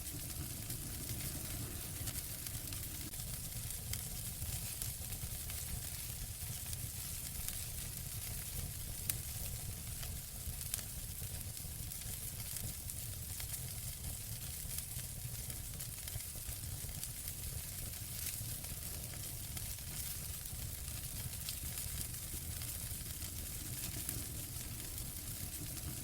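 Wood fire in a fireplace crackling steadily, with many small snaps over a low rumble and hiss, and a sharper pop about nine seconds in.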